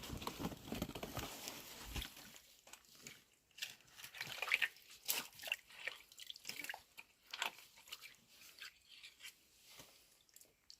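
Hands groping through shallow muddy water and wet leaf litter while feeling for fish, giving small, irregular splashes, squelches and crackles.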